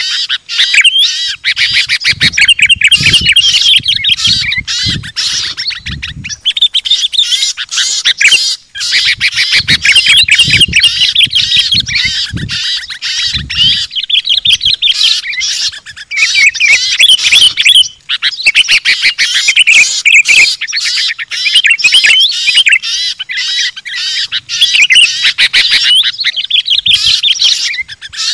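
Dense, continuous chatter of many small songbirds calling at once, a mixed bird-lure recording of rapid high chirps, twitters and squawks. Low muffled thumps come and go in the first half.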